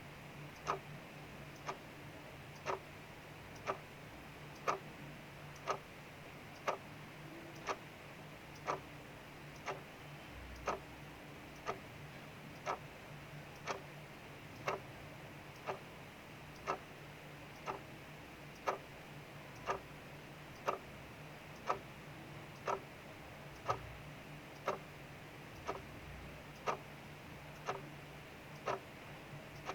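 Clock ticking steadily, about one tick a second, over a steady soft hiss of rain.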